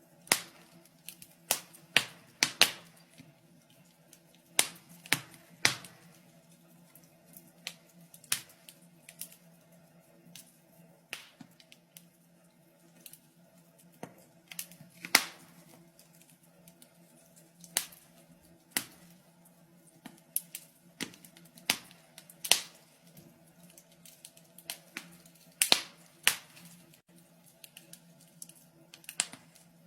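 Wood fire crackling in a fireplace: irregular sharp pops and snaps of burning logs, some much louder than others, over a faint steady low hum.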